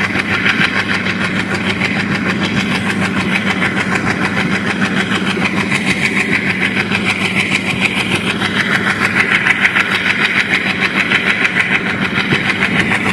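Passenger train running at speed, heard from the open door of a coach: steady clatter of wheels on rail and rushing noise, with the diesel locomotive's engine running ahead.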